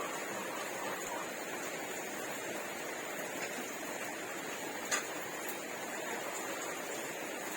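Quiet eating of rice and curry by hand: faint mouth and hand sounds over a steady hiss, with one sharp click about five seconds in.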